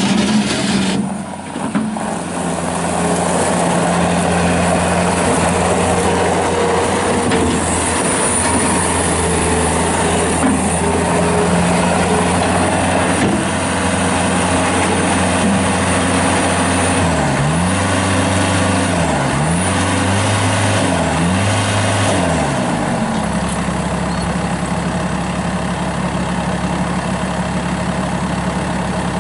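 2007 Bobcat S185 skid steer loader's diesel engine running steadily, its pitch dipping and recovering several times about two-thirds of the way through, then settling to a steady lower speed near the end.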